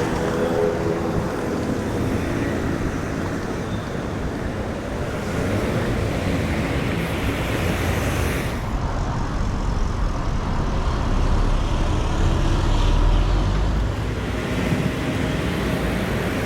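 Steady city road traffic: engines of cars and motorbikes running along the street, with one engine's pitched note at the start. A heavier low rumble runs through the middle of the stretch.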